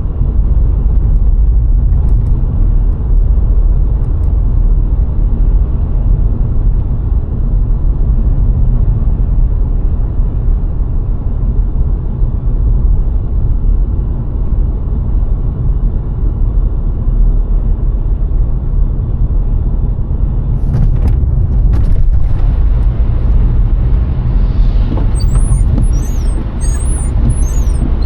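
VW Golf IV 1.6 driving along a country road: a steady low rumble of engine and tyre noise. There are a few short knocks about twenty seconds in, and faint high chirping near the end.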